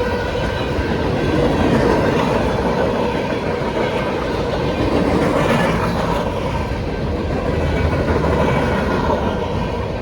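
Freight train cars rolling past a grade crossing: a steady, loud rumble of wheels on rails with clickety-clack over the rail joints. The crossing's electronic bell rings faintly under it.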